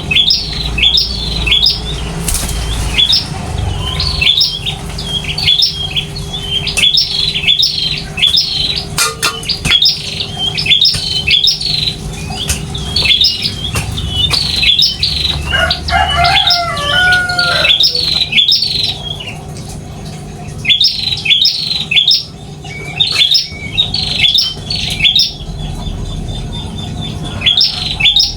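Small finch-like birds (burung pipit) chirping over and over: short, high chirps about twice a second, with a brief lull past the middle. Near the middle, a lower warbling call joins in for a couple of seconds. A steady low hum runs underneath.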